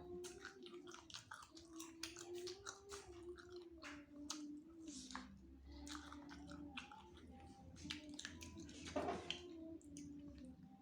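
Close-miked chewing of spicy chicken wings and rice: wet mouth noises and many small clicks and smacks, with a brief rushing sound about nine seconds in.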